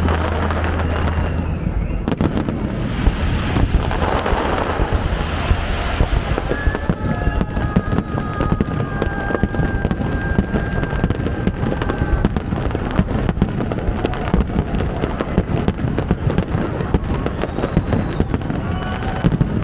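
Aerial fireworks going off continuously, a dense, irregular run of bangs and crackles with no break.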